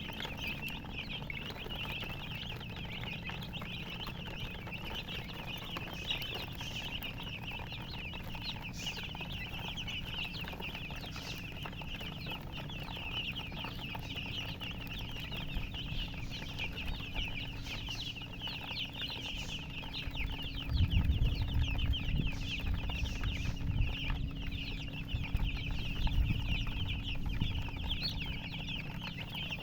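Chicks peeping steadily, many short high chirps overlapping. From about two-thirds of the way through, low rumbling thumps come and go for several seconds.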